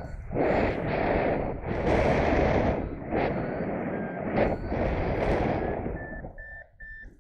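Strong wind buffeting the microphone in loud gusts during a paraglider flight. Underneath, a paragliding variometer gives a thin electronic tone that shifts slightly in pitch and breaks into short, evenly spaced beeps near the end.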